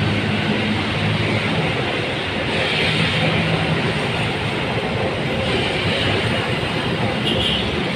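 Diesel locomotive hauling a train past, with a steady rush of train noise. A low engine hum is strongest in the first few seconds and then sinks into the rumble of the cars.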